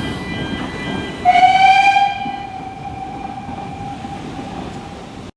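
Narrow-gauge train's whistle sounding once about a second in, loud for under a second and then trailing off slowly, over the steady rumble of the train running.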